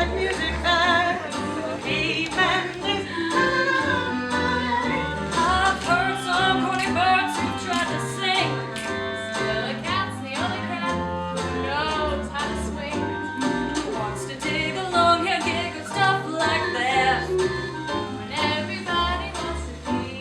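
Glee club singing a jazzy swing number with instrumental backing: several voices in harmony over a walking bass line and percussion.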